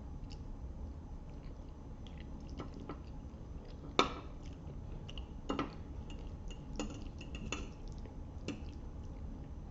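Eating sounds: a fork clicking against a plate a handful of times, the sharpest about four seconds in, with soft chewing of spaghetti between.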